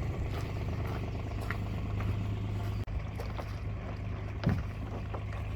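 Boat engine running steadily at low revs, a constant low hum, while the boat is manoeuvred through shallow water.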